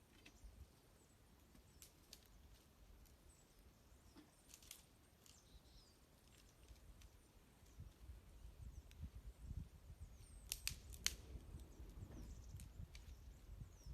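Wood fire crackling faintly with scattered sharp pops, the loudest a quick cluster about ten and a half seconds in, and faint small birds chirping. A low rumble swells in the second half.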